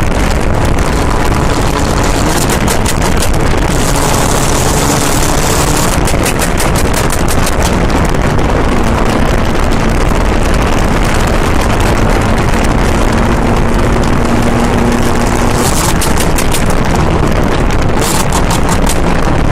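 Mazda MX-5 Miata engine running hard at high revs, loud and rough, with several spells of rapid crackling; in the middle it holds one steady note for several seconds.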